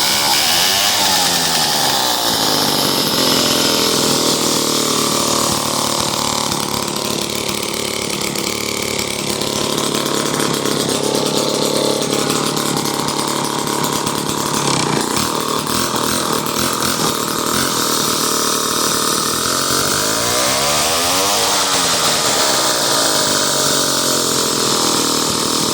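Vintage Clinton D35 two-stroke chainsaw engine running steadily, revved up and back down near the start and again about twenty seconds in. The owner thinks its carburettor might need adjustment or cleaning.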